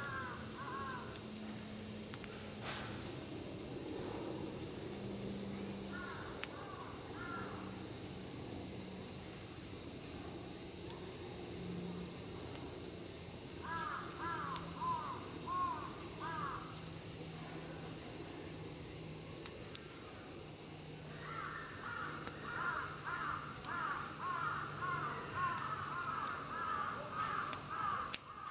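Crows cawing in short runs of quick repeated calls, with a longer run of calls starting about 21 seconds in, over a steady high-pitched drone of insects.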